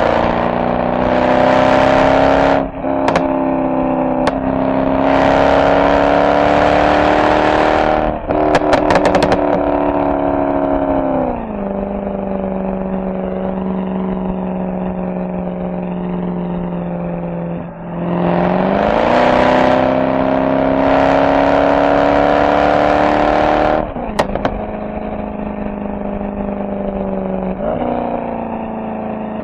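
Mercedes-AMG SL63's V8 exhaust pulling hard through quick upshifts, each shift a sudden drop in pitch. A rapid crackle of pops comes off throttle about eight seconds in. The engine then cruises at a steady note before another strong pull and a single sharp pop as the throttle lifts again.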